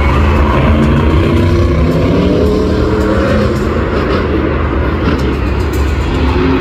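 Monster truck engine running loud and revving, its pitch climbing for a couple of seconds before levelling off.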